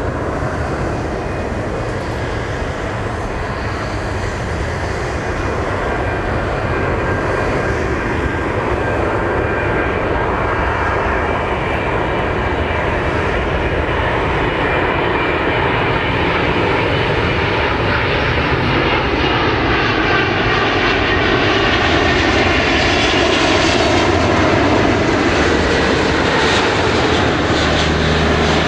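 Jet engines of a Boeing 777-200ER airliner coming in to land: a steady loud drone with a faint whine, slowly growing louder.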